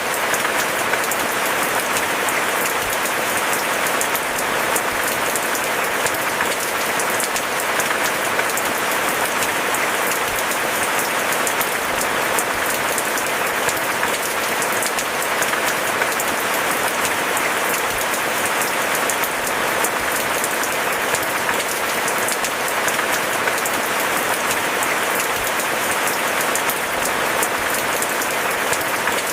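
Steady rain falling, a dense, even patter of countless drops with no let-up.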